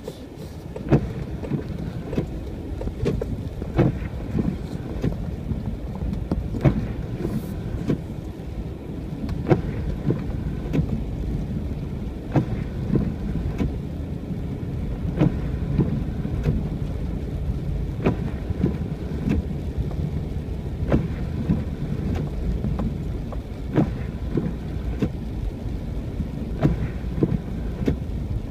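Car driving on a snow-covered road: a steady low road rumble with frequent irregular knocks and thuds, about one a second.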